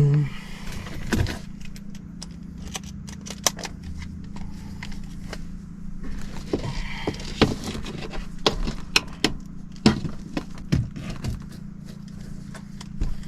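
Irregular metallic clicks, clinks and knocks of hand tools on sheet-metal ductwork as a screw holding a zone damper to the plenum is worked out. A steady low hum runs underneath.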